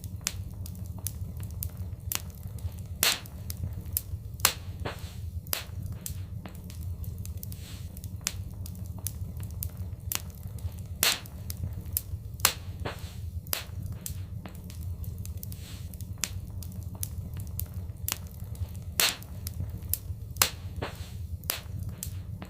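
Wood fire crackling, with frequent small snaps and a handful of louder pops at irregular moments, over a steady low rumble.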